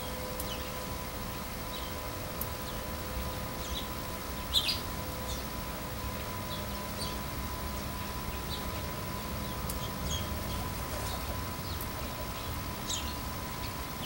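Small birds chirping: short, scattered high chirps every second or so, the loudest about four and a half seconds in, over a steady low background rumble.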